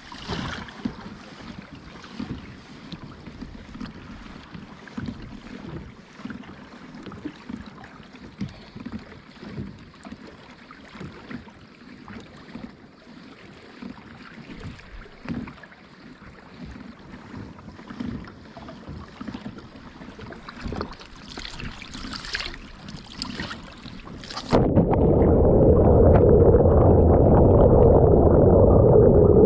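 Water lapping and splashing around a kayak, with wind on the microphone. About 25 seconds in, the sound cuts abruptly to a much louder, muffled rumble with no high end.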